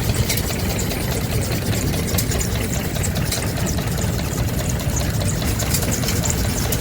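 Vintage stationary engine running steadily, with scattered sharp ticks over the engine's rapid low beat.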